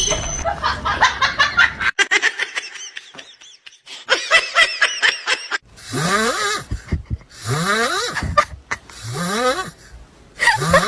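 Laughter: rapid chains of short bursts, then several separate fits, with breaths or pauses between them.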